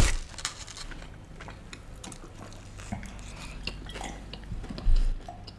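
Eating sounds: quiet chewing of garlic bread and sips from a glass of water, with scattered small clicks and a dull thump about five seconds in.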